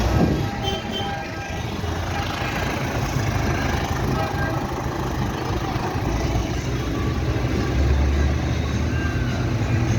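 Tractor engines running with a steady low rumble as the tractor run passes.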